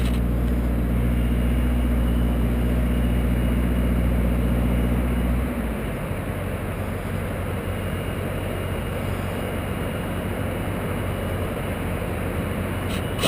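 An engine running steadily, then cutting out or dropping away about five and a half seconds in. A steady rough noise carries on after it.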